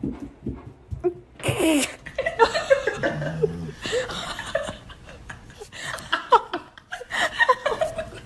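A woman laughing in repeated bursts, starting about a second and a half in.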